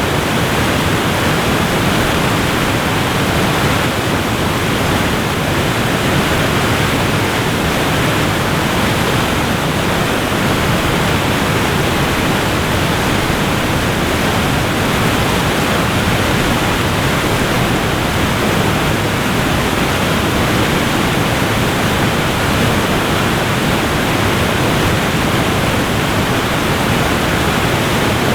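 Waterfall rushing in a steady, loud, even roar of falling water, with no change or pause.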